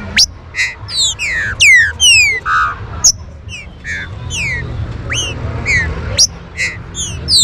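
Green-winged saltator (trinca-ferro) calling: a rapid series of sharp whistled notes, each sweeping steeply down in pitch, two or three a second, over a steady low hum.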